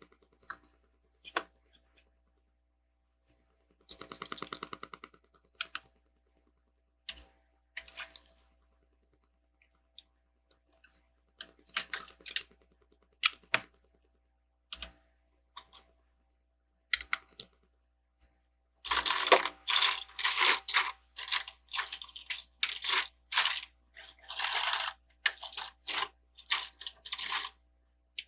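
Plastic Lego bricks being handled: scattered sharp clicks, then a dense run of rattling clicks through the last third as loose pieces are picked through.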